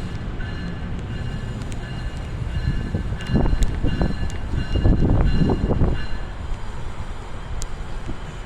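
NJ Transit passenger train running past with a steady low rumble and faint high tones that come and go; the rumble grows louder in uneven surges from about three to six seconds in, then eases.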